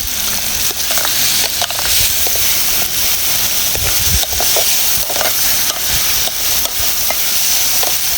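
Onions frying and sizzling in a saucepan, with a steady hiss, while a spoon stirs them and scrapes and taps against the pan in scattered clicks to keep them from sticking.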